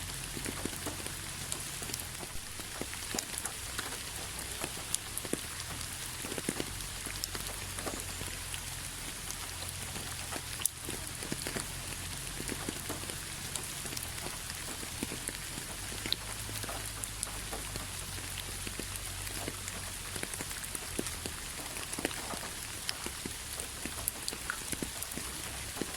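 Steady rain falling on a hard surface, with many separate drops ticking and pattering irregularly over an even hiss.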